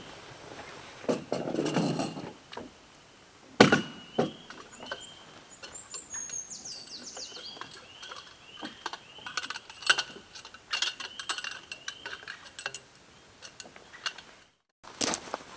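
Metal camp cookware and gear clinking and knocking, with a rustle early on. Through it, a bird repeats a short chirp about twice a second, with a quick falling whistle midway.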